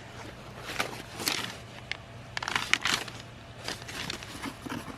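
Sheets of drawing paper rustling and crinkling in several short spells as they are handled and turned over.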